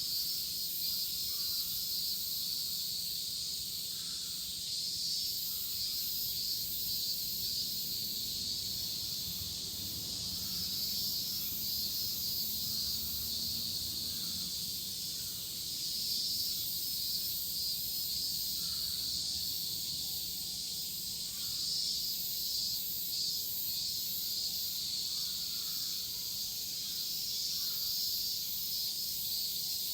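Dense, steady chorus of many cicadas shrilling together, with no let-up.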